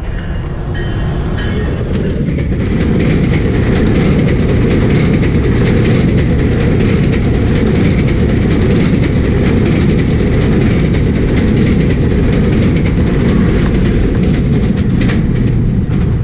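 GO Transit commuter train of bi-level coaches passing close at speed: a loud, steady rumble of wheels on rail that builds over the first few seconds as it approaches, and falls away near the end as the last car goes by.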